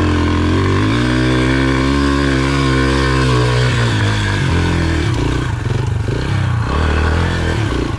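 Yamaha TT-R125's single-cylinder four-stroke engine revving hard under load while riding. Its pitch climbs and falls over the first few seconds, then surges up and down at lower revs with the throttle.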